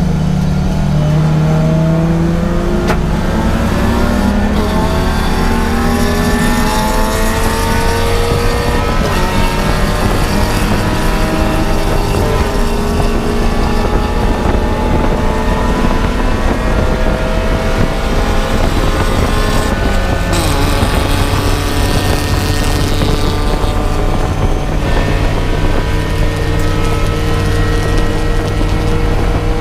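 Race car engine running hard at speed, its pitch climbing slowly for many seconds. The pitch drops briefly about two-thirds of the way through, then holds steady.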